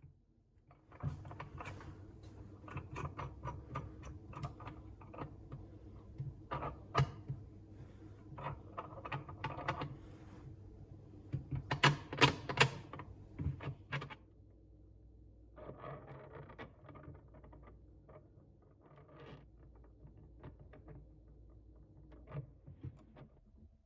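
Irregular clicks and knocks of small hard parts being handled, densest in the first half, with a louder cluster about twelve seconds in and only scattered clicks near the end.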